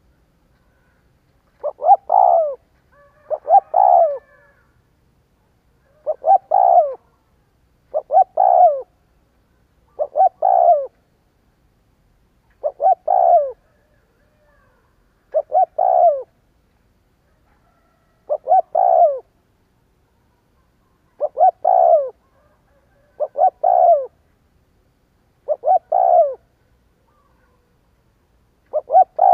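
Spotted dove cooing: short phrases of a few falling notes, repeated about every two to three seconds, about a dozen times.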